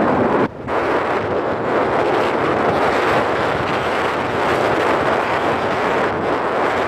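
Steady wash of sea surf mixed with wind buffeting the microphone, with a brief dip about half a second in.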